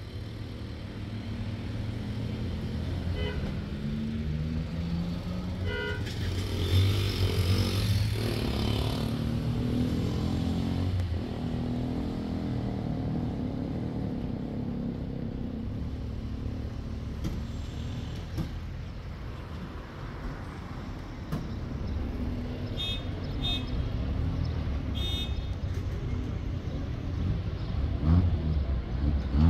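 A motor vehicle running with a steady low rumble that swells for a few seconds near the start. Short beeps come a few times over it.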